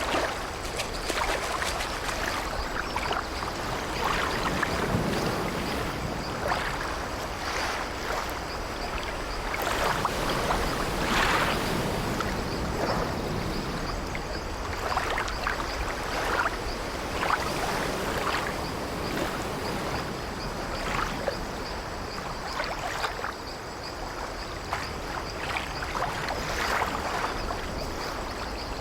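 Continuous sea-wave ambience: water washing and sloshing against an old wooden ship, with irregular swells, and the light creaking of the ship's timbers.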